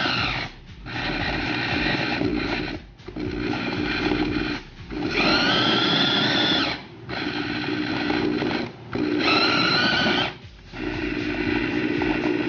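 Small electric push-top mini chopper motor whirring in bursts of about two seconds with short breaks between, pulsed on and off by pressing its top while chopping raw ground beef.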